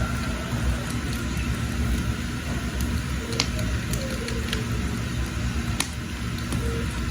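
Wood fire burning under a pot of water: a steady low rumble with a few sharp crackles, two louder ones about halfway and near six seconds in.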